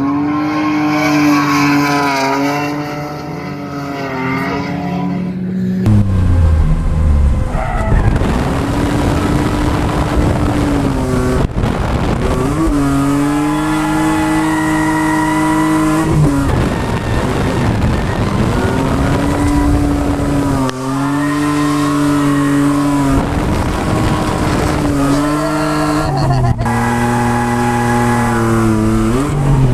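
Ford FG Falcon drift car being driven hard: its engine is held high in the revs, dropping and climbing again several times, between long stretches of tyre squeal as the welded-diff car slides.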